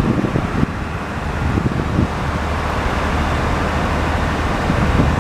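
A vehicle engine idling steadily, with wind buffeting the microphone.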